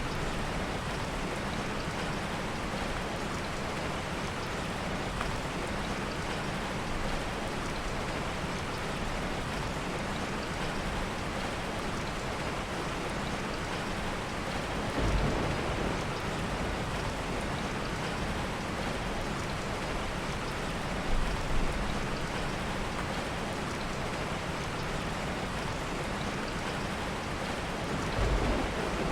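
Heavy rain falling steadily in an even hiss, with three brief louder swells that add a deep low end: about halfway through, around two-thirds of the way through and near the end.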